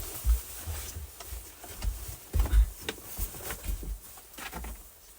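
Rustling and irregular dull knocks as a heavy backpack is handled and pushed through into a cramped dugout, with a few louder thumps about two and a half and three seconds in.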